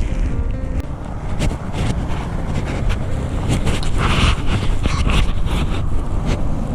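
Wind buffeting the microphone in a heavy low rumble, with footsteps crunching through snow; a brief louder hiss about four seconds in.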